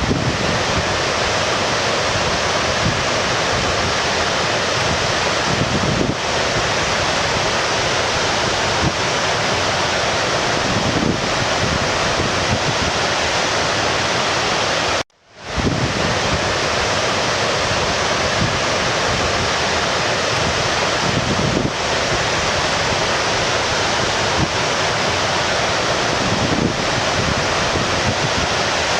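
Steady rushing of a flowing stream, with no music over it. The recording drops out for a split second about halfway through and then starts over, as a loop.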